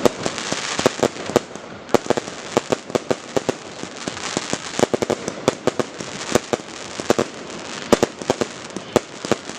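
Fireworks display: a rapid, irregular string of sharp bangs and cracks, several a second, over a continuous crackle of bursting shells.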